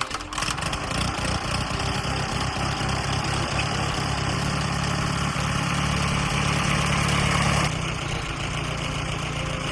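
1940 Allis-Chalmers Model B tractor's four-cylinder engine running on magneto ignition, a rhythmic low engine beat that grows slightly louder, then drops back to a lower, steadier running level about eight seconds in.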